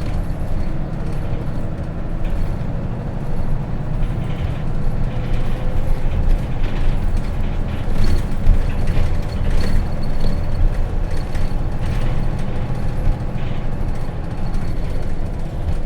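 Hino RJ city bus's J08C inline-six diesel running as the bus drives along, heard from inside the cabin as a steady low rumble, with short rattles and clicks scattered through it.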